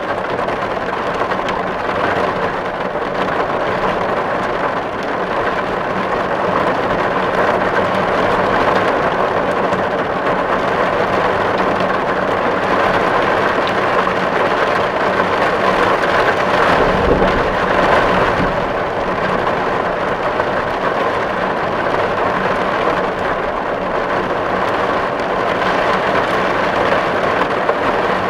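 Steady rain drumming on a metal tin roof, a dense even patter. A brief low rumble comes about two-thirds of the way through.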